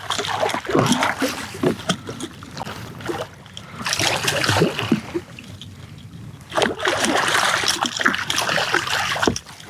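Water splashing in three bouts as a hooked redfish thrashes at the surface beside the kayak while it is brought in.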